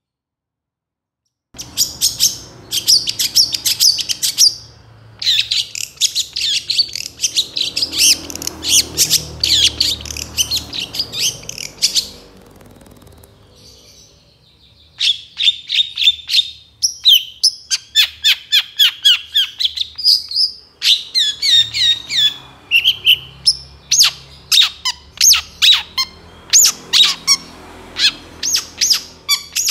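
Long-tailed shrike (cendet) singing a fast, loud song of rapid chattering notes, starting about a second and a half in. It breaks off for a short lull about halfway, then goes on with sharp notes repeated in quick series.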